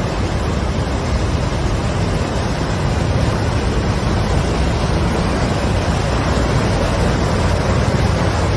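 Floodwater rushing past in a steady, loud torrent.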